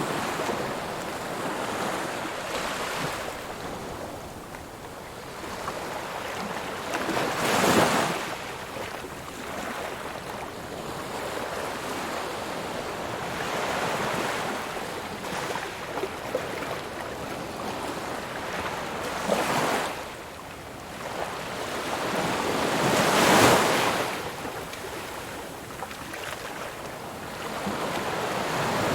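Ocean waves breaking on a shore over a constant wash of surf, with two louder breakers, about eight seconds in and again near twenty-three seconds.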